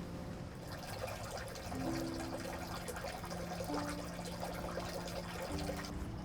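Water trickling and splashing in a steady patter, over soft background music of long held notes.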